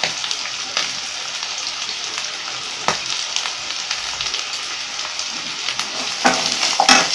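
Sliced onions, garlic and green chillies sizzling in hot oil in a pan, the onions just added: a steady frying hiss. A few sharp clicks of a steel spoon on the pan, the last two as stirring starts near the end.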